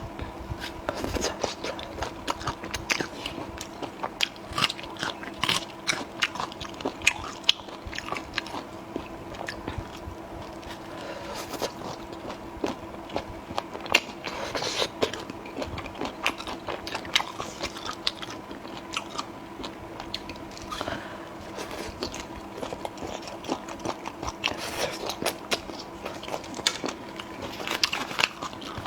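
A person biting and chewing food close to the microphone, with crunches in a dense, irregular stream. A faint steady hum runs underneath.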